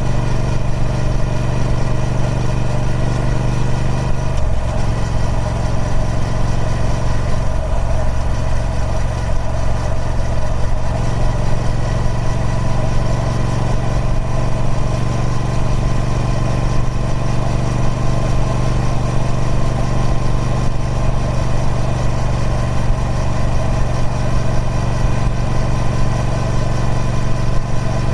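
Triumph Speed Twin 1200's 1200cc parallel-twin engine running at a steady speed through its stock exhaust. Its low note shifts briefly about four seconds in and again around eight to eleven seconds.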